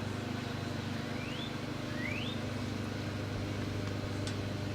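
Steady low mechanical hum at an even level, with two short rising chirps about a second apart early on and a faint click near the end.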